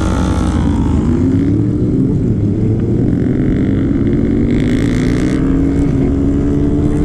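A motorcycle engine held at high revs, its pitch climbing slowly and steadily. A rush of hissing noise joins it from about three to five seconds in.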